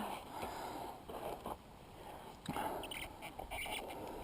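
Faint handling noise and sipping as someone drinks water, with a few soft clicks and scrapes.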